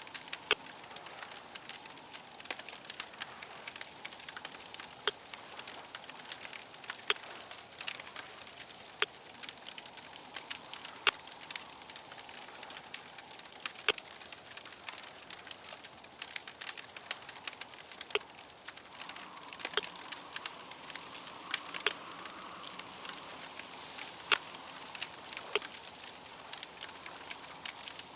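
Ambient crackling fire: a steady hiss dense with small crackles, and sharper snaps about every two seconds.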